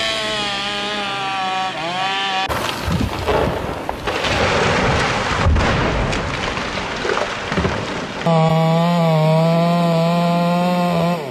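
Chainsaw running, its pitch shifting with the throttle. It gives way for several seconds to a loud rumbling, crashing noise with a few knocks, then comes back running steadily near the end.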